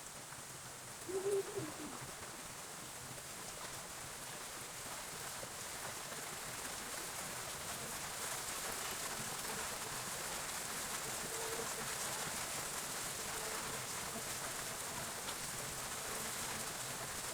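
Steady rain hiss that grows slowly louder, with a short, low cooing bird call about a second in and fainter calls around the middle.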